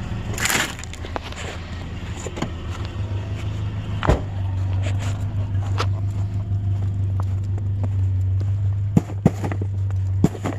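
Steady low drone of a vehicle's engine and road noise, with a few sharp clicks or knocks: one about four seconds in and three close together near the end.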